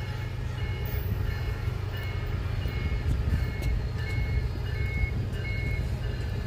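COASTER commuter train's diesel locomotive approaching slowly with a steady low engine rumble, while a bell dings about twice a second.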